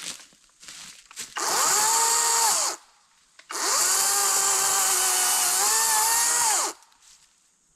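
An electric power tool's motor run twice: a short run of about a second and a half, then a longer one of about three seconds. Each time it spins up to a steady high whine and winds down when released.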